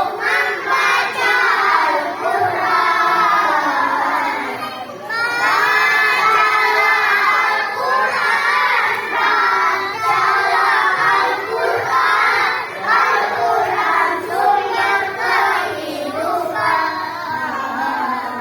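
A group of children singing loudly together, many voices overlapping, with a short break about five seconds in.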